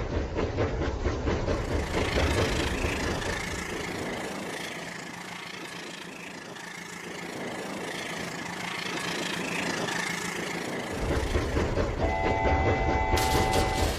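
Battery-powered Rail King toy train running on its plastic track, its motor and wheels making a steady clattering hum that fades and swells as it goes round. Near the end a steady electronic horn tone sounds for about two seconds.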